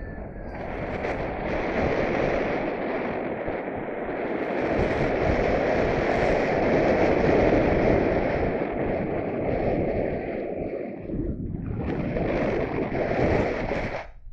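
Wind rushing over the microphone in flight under a paraglider, a steady roar that swells and eases, dipping briefly about eleven seconds in.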